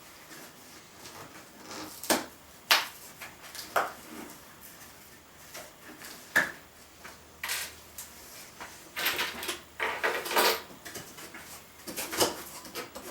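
Hard parts of a 1960s Hoover blender and its packaging being handled: scattered knocks and clicks, with a few seconds of rustling about two-thirds of the way in.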